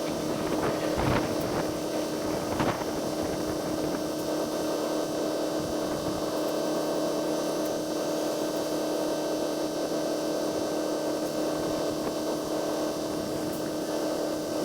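Steady mechanical hum of an idling vehicle, with a few brief knocks in the first three seconds.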